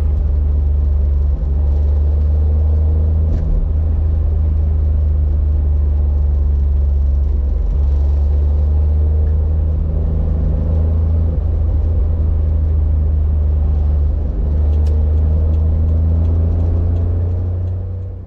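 Honda Beat's small three-cylinder engine running as the car is driven, a steady low drone that dips briefly about four times.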